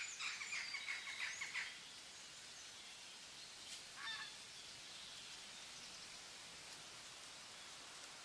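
Birds chirping: a burst of quick, high calls in the first second and a half, a single short call about four seconds in, and otherwise a faint steady hiss.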